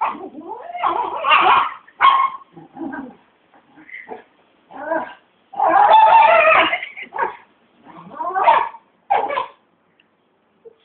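Dog screaming and yipping in a string of loud, irregular cries, with one long cry about halfway through, as it goes wild after a bath.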